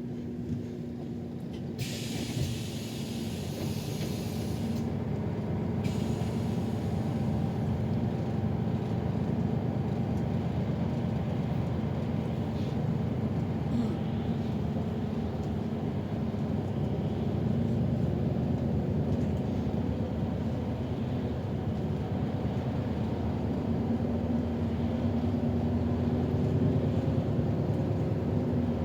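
City bus heard from inside the cabin: a hiss of compressed air lasting about three seconds near the start, with a short second hiss just after, over the steady drone of the engine and running gear. The drone grows a little louder as the bus drives on.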